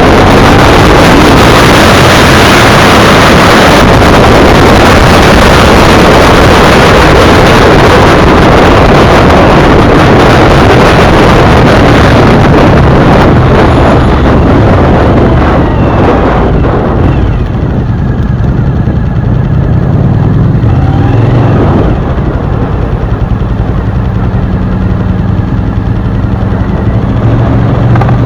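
Sport motorcycle riding at speed, with heavy wind noise on the microphone. About two-thirds of the way through the wind drops and the V-twin engine's steady low drone comes through as the bike slows.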